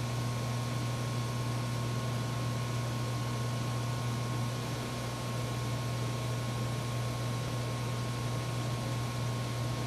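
Steady electrical hum with an even fan-like hiss and a thin, constant high whine, unchanging throughout.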